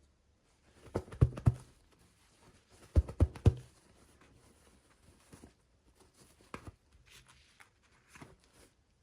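Toys and plastic packaging being handled: two quick runs of three or four sharp knocks, about a second in and again about three seconds in, then faint scattered clicks and rustles.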